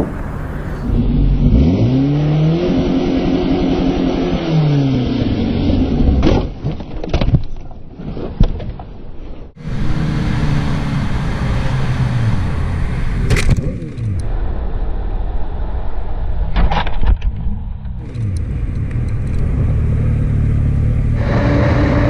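Motorcycle engine revving up and then dropping off, with road and wind noise, recorded on the bike; sharp knocks come around six to eight seconds in. The sound changes abruptly several times as separate ride recordings are cut together.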